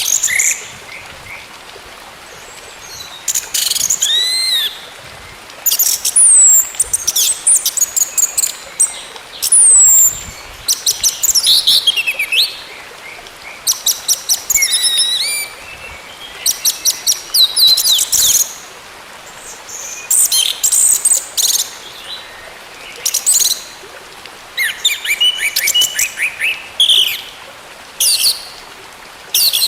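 Orange-headed thrush (anis merah) singing: phrases of a second or two made of fast, high rattles and sweeping whistled slurs, with short pauses between them.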